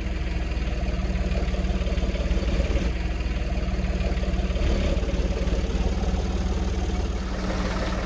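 An engine idling steadily, with an even, rapid low rumble.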